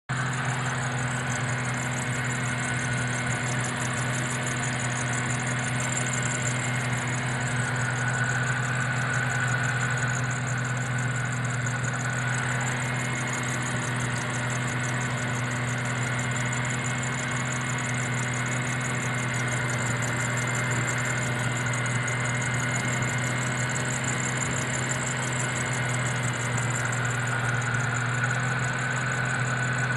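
Car engine idling with a Jackson Racing supercharger belt drive, the belt squealing: a thin, high, steady squeal over the engine's even hum, its pitch shifting slightly now and then.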